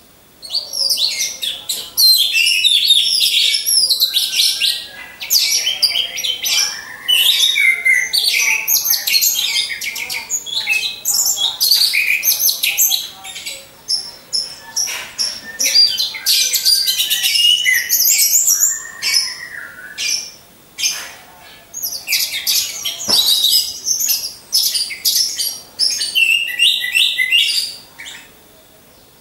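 Several caged orange-headed thrushes singing in a dense run of varied, fast-changing high phrases, with brief pauses about two-thirds of the way through and near the end.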